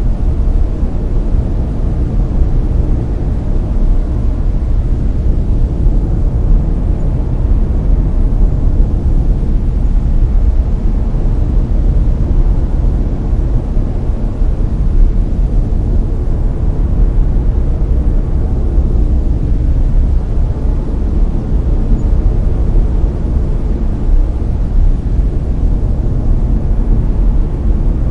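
Layered brown noise: a steady, loud, deep rushing hiss with most of its weight in the bass and little treble, unchanging throughout.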